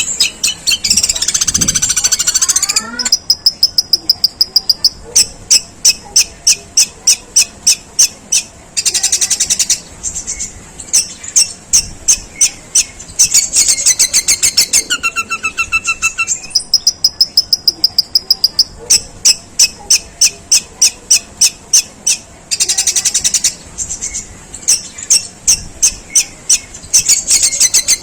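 Long-tailed shrike (pentet) singing its 'gerejaan' shot: long runs of harsh, sparrow-like chirps repeated about three to four a second. The runs are broken now and then by short, even trills.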